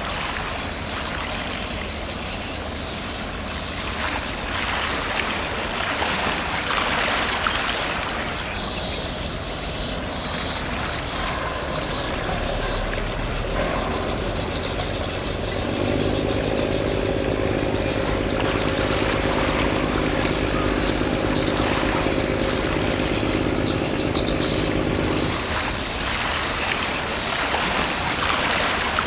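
Container ship's engine droning as the ship passes, a steady low rumble under outdoor noise. A steady pitched hum comes in a little past halfway and stops a few seconds before the end.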